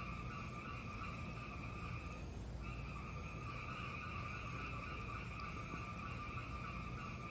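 Fireplace fire burning: a steady hiss over a low rumble, with a few faint crackles. The hiss breaks off briefly about two and a half seconds in, then resumes.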